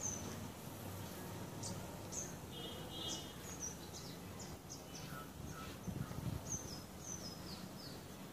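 Small birds chirping over a low steady background hum: many short, high chirps, some sliding downward in pitch. A brief low rumble about six seconds in.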